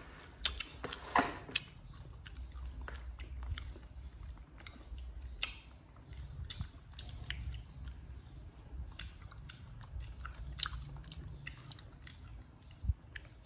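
Chewing and biting close to the microphone: irregular crunchy clicks and smacks over a low steady rumble.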